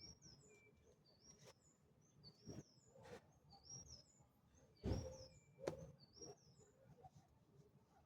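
A bird singing a short phrase of high, stepwise rising chirps, repeated about once a second. Several soft knocks sound under it, the loudest about five seconds in.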